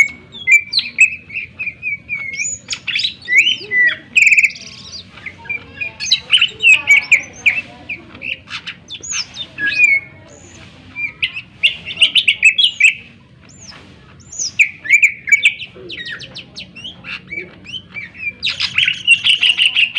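Greater green leafbird (cucak ijo) singing loudly: a fast, varied stream of sharp chirps, sweeping whistles and trills, with brief lulls about 5, 10 and 14 seconds in.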